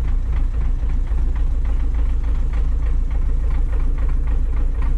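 Heavy diesel engine idling steadily with an even, low rumble.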